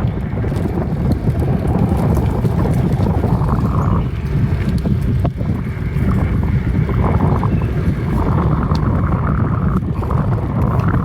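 Wind buffeting the microphone of a phone carried on a moving bicycle: a loud, steady low rumble, with a few faint clicks.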